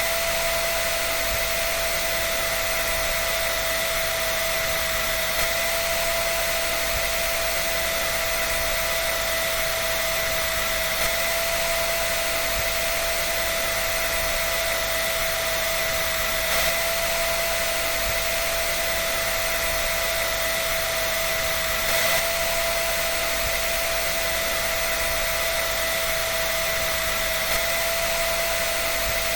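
Hair dryer running steadily: a constant rush of air with a steady high whine from its motor, unchanging throughout.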